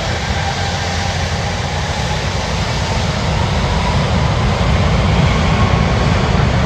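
Jet airliner engines: a steady, loud rumble with a faint whine that rises gently in pitch, growing louder throughout.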